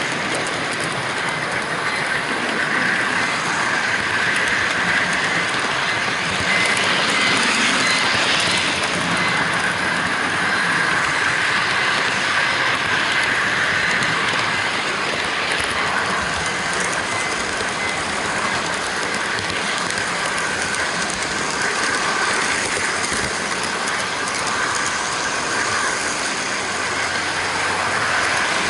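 HO-gauge model freight train running on its track, heard from a camera riding on one of its container wagons: a steady rolling rumble of small metal wheels on the rails.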